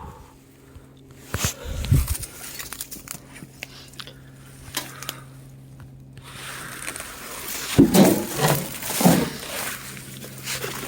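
Crackling, rustling and scattered knocks of a person clambering through brush and debris, with a low thump about two seconds in and a cluster of louder knocks near the end.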